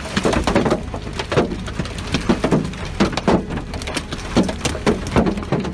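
Heavy rainstorm with strong wind: a steady rush of rain and wind with many irregular sharp hits, several a second, as rain and debris strike.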